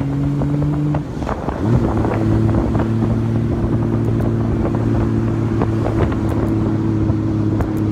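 Honda Valkyrie's flat-six motorcycle engine running. Its note breaks off about a second in, swoops up in pitch, then holds steady, with wind noise on the microphone.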